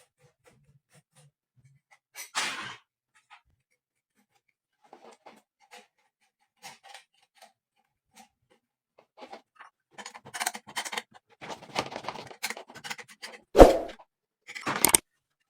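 Handling noises of parts being worked on by hand: scattered clicks and short rustles, busier towards the end, with one sharp knock near the end.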